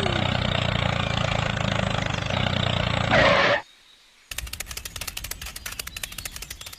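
A small engine running steadily with mechanical clatter, which swells and then cuts off abruptly about three and a half seconds in. After a short silence, a fast, even run of clicks follows.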